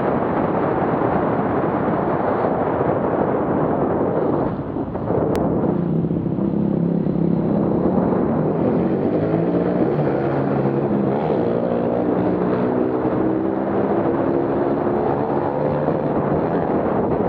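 Motorcycle engines revving, their pitch repeatedly climbing and dropping in steps. For the first few seconds a steady rushing noise covers them.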